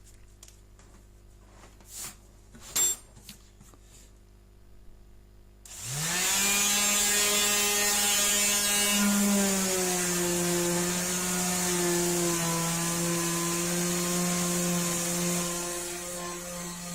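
A few light handling clicks, then an electric orbital sander switches on about six seconds in, quickly spinning up to a steady motor hum with a hiss on top. Its pitch dips slightly a few seconds after starting and it runs on; this is a test run of its freshly rebuilt hook-and-loop base pad with a worn sanding sheet.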